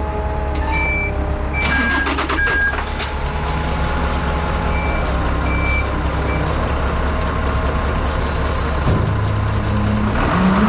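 Diesel vehicle running and reversing, its reversing alarm beeping on and off. There are short hissing clicks about two seconds in, and the engine revs up and back down near the end.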